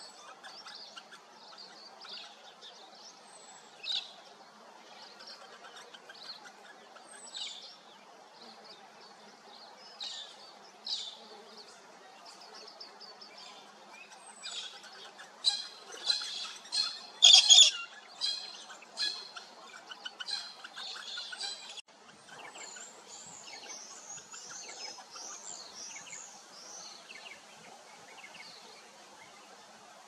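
Wild birds chirping and calling: scattered short, high chirps throughout, with a louder run of sharp calls about halfway through. A faint steady hum lies beneath.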